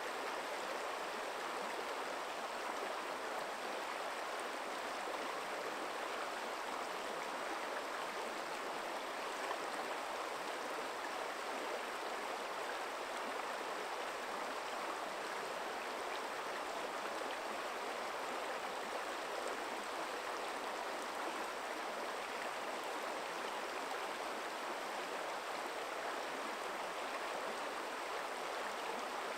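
A forest stream flowing over rocks: a steady, even rush of running water with no breaks.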